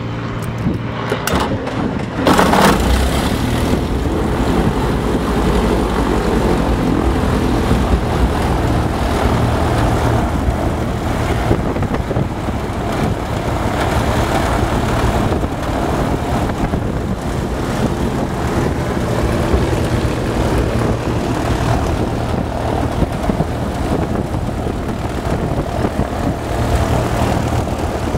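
Lancair 360's four-cylinder Lycoming aircraft engine being started: the starter cranks briefly, the engine catches about two seconds in, and it then runs steadily with the propeller turning.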